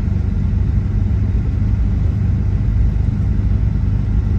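Steady low rumble of a four-wheel-drive vehicle driving slowly down a snow-covered mountain road, engine and tyres running with no change through the stretch.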